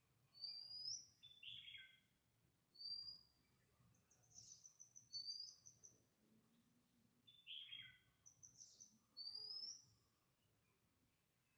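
Several wild birds calling, faint. A short rising whistle comes back every two to three seconds. Between the whistles come two falling notes and a quick run of short high notes.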